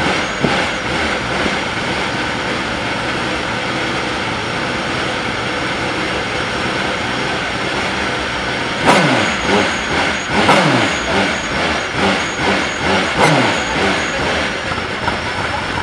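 Mercedes-Benz CLK LM road-car engine idling, revved in short throttle blips about 9, 10.5 and 13 seconds in, each falling quickly back to idle.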